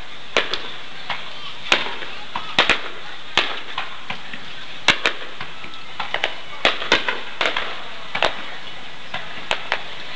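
Aerial firework shells bursting: about twenty sharp bangs at uneven intervals, often two in quick succession, over a steady background hiss.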